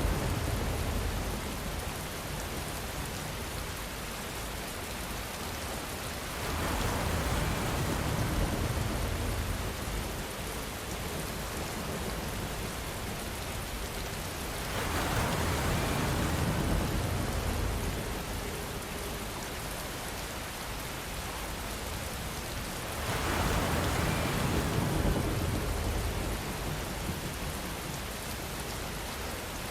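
Steady rainfall. It swells louder and deeper three times, about every eight seconds, each swell lasting two to three seconds.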